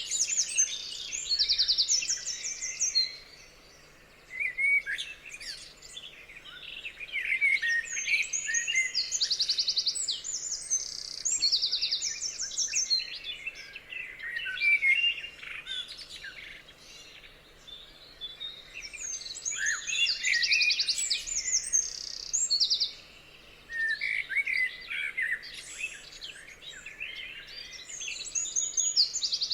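Several songbirds singing and calling at once, with fast rattling trills and short whistled chirps overlapping. The chorus drops away briefly a few times.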